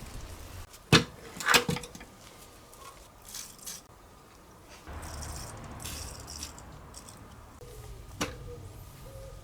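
Workshop clatter: a sharp knock about a second in, a short rattle just after, a stretch of rustling around the middle, and another knock near the end.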